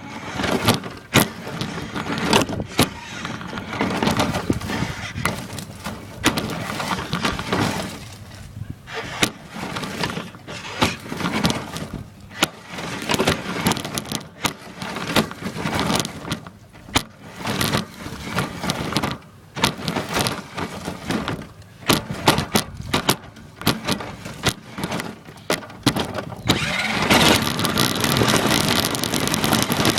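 Radio-controlled car driving, heard from a device taped to its body: a continuous rattling, scraping noise broken by many irregular sharp knocks as it bounces over the ground. Near the end it becomes steadier and denser.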